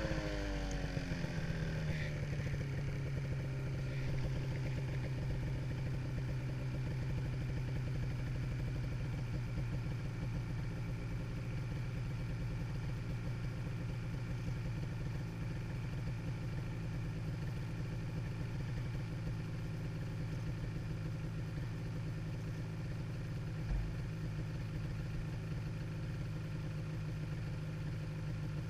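Ski-Doo snowmobile engine running. Its pitch falls over the first couple of seconds as it eases off, then holds steady. A single low thump comes late on.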